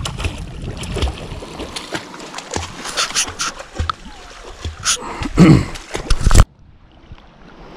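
Water splashing with irregular knocks and splatters, plus a brief falling-pitch sound a little past five seconds; the sound cuts off suddenly about six seconds in, leaving only a faint background.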